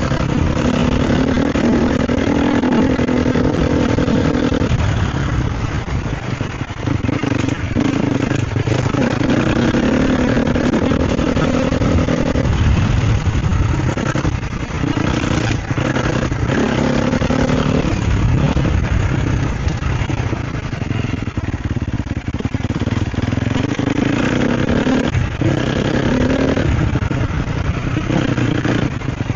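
Sherco SEF 250 four-stroke single-cylinder dirt bike engine, heard from the rider's position, revving up and down as the throttle is worked during riding. The engine note drops and climbs again several times, with scattered knocks and clatter.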